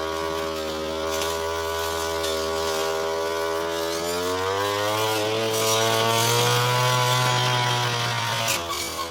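Brush cutter engine running under throttle. It speeds up about halfway through, holds a higher pitch, then drops back near the end.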